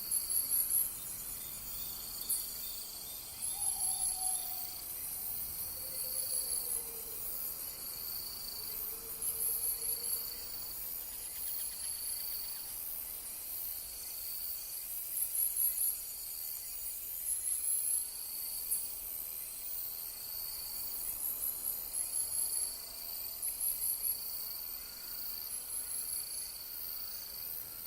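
Night insects chirping in a steady chorus: short, high pulsed chirps repeating every second or two, with a second, lower chirping voice alongside, over a faint hiss. A few faint calls falling in pitch sound between about three and nine seconds in.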